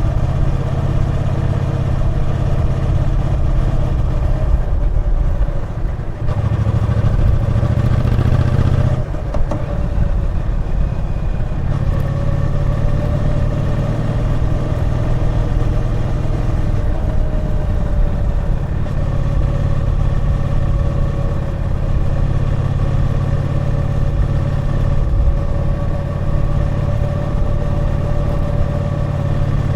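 Triumph Bonneville T120's 1200 cc parallel-twin engine running as the motorcycle rides along. Its note changes about six seconds in and eases off briefly around nine seconds, then it runs steadily again.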